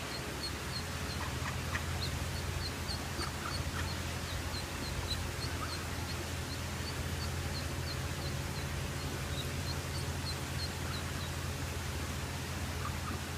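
A duckling peeping over and over, short high peeps about three a second that stop about 11 seconds in: the calls of a duckling stranded on its own in a pool, separated from its brood. A steady low hum runs underneath.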